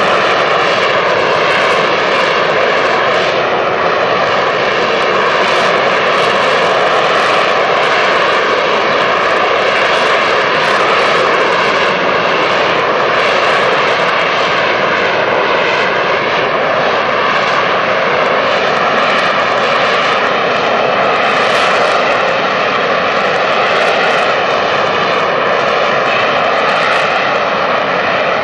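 AV-8B Harrier II jump jet's Rolls-Royce Pegasus turbofan running loud and steady: a continuous jet roar with a whining tone that wavers slightly in pitch.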